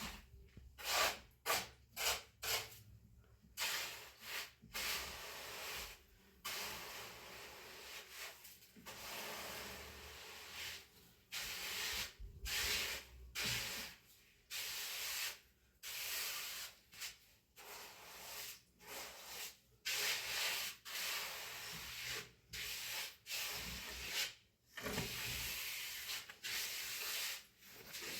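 Trowel scraping and smoothing cement, in many strokes of uneven length: some short and quick, some about a second long, with brief pauses between them.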